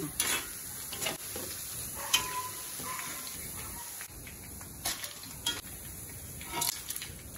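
Boondi (drops of gram-flour batter) sizzling steadily as they fry in hot oil in an iron kadai. A metal perforated ladle stirring and scooping them gives a few light knocks against the pan.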